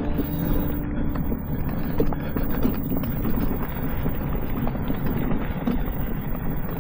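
Off-road mobility scooter driving over a rough, wet trail: a steady rumble from the wheels and frame, with scattered small knocks and rattles as it jolts over the ground, and wind on the microphone.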